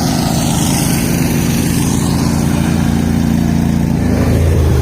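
Garden tractor engine running steadily, its pitch shifting down briefly near the end.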